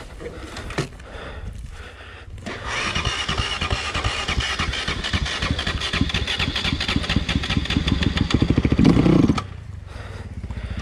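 Dirt bike engine running at idle with a rapid, even firing beat; it comes in about two and a half seconds in, grows louder, then drops away suddenly about nine seconds in.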